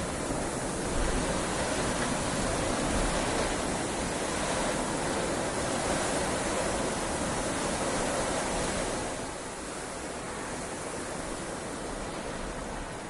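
Heavy rain falling as a steady hiss. It swells about a second in and eases a little around nine seconds.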